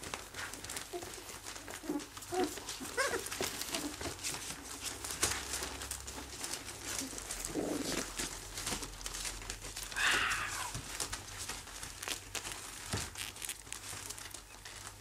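Three-and-a-half-week-old English cocker spaniel puppies squeaking and whining a few times over constant rustling and crinkling as they move about. The loudest cry is a short whine about ten seconds in.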